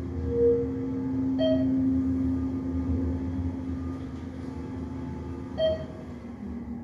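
Traction elevator running with a steady low drone and hum and a brief whine near the start, the weird noise put down to the machine being low on oil. Two short dings ring out, about a second and a half in and again about four seconds later, and the drone eases off near the end.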